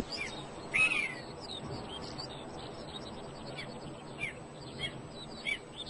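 Birds chirping: scattered short, high calls that slide downward, the loudest about a second in, over a faint steady outdoor background.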